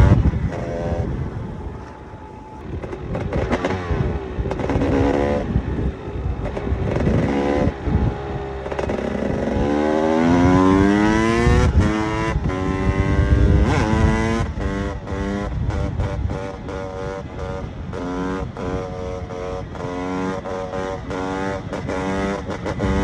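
KTM EXC 300 two-stroke single-cylinder engine under riding load, revving up and dropping as the bike is ridden and shifted. About ten seconds in it pulls through a long rising climb in pitch, and near the end it gives a series of short rises and breaks.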